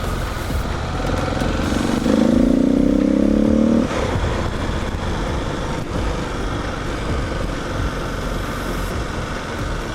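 Kawasaki KLX250 single-cylinder motorcycle engine running while riding, with wind noise. About two seconds in, a louder, slightly rising tone starts and lasts about two seconds, then cuts off sharply.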